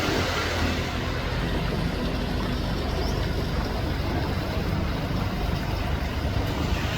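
Boat engine running steadily, with a continuous rushing noise over it.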